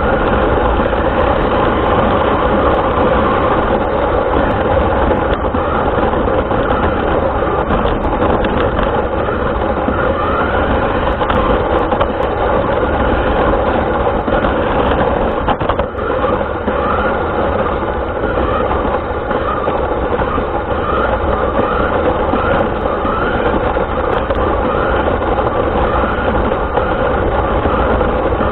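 Radio-controlled car driving, heard from a camera mounted on it: a steady, loud mix of motor, gear and tyre noise. From about halfway through, short rising whines repeat roughly once a second as the motor picks up speed.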